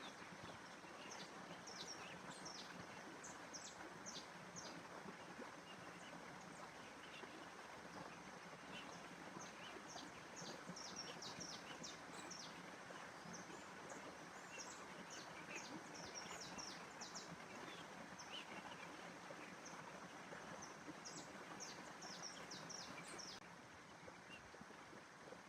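Faint nature ambience: many short, high bird chirps scattered throughout over a steady background hiss.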